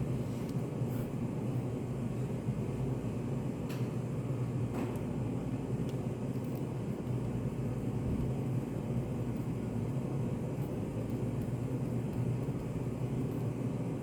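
Steady low hum and rumble of study-cafe room ambience, with two faint clicks about four and five seconds in.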